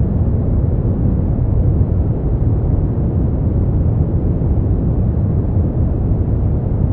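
Generated sleep-aid 'white noise', a steady, unchanging noise with no tones or events. It is weighted toward the low end, deep rather than hissy, with nothing in the high range.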